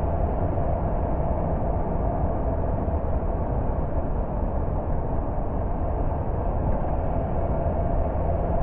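A car driving at a steady pace: an even rumble of engine and road noise with a faint steady hum that does not change.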